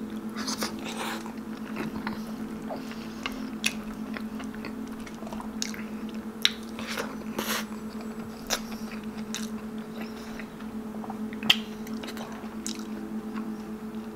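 Close-up chewing and biting of soft, slow-simmered braised pork trotter, with irregular wet smacks and lip clicks, one louder smack near the end. A steady low hum sits underneath.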